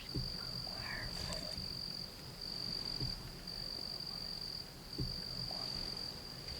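Insects trilling in one steady, high-pitched note that breaks off briefly a few times, with a few faint low knocks.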